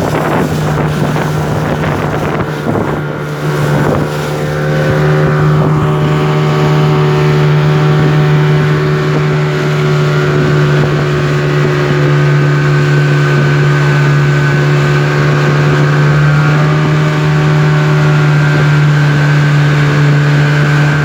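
Speedboat engine running under way at a steady pitch, with wind buffeting the microphone in the first few seconds. About four seconds in, the engine grows louder and then holds a steady note.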